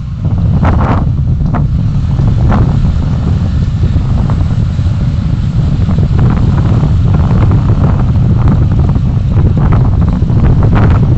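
Wind buffeting a dashcam microphone on a moving vehicle: a steady low rumble with a few brief ticks and knocks.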